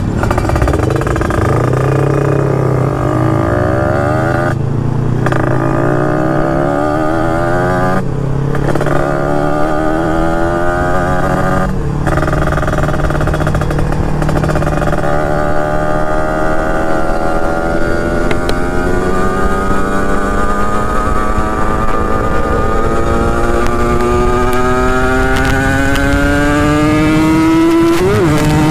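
Two-stroke engine of a Kawasaki Ninja RR, fitted with a new cylinder block and road-race porting, pulling hard on the move. Three quick upshifts come a few seconds apart early on, each a short break in the sound. After that the pitch climbs slowly and steadily in a high gear.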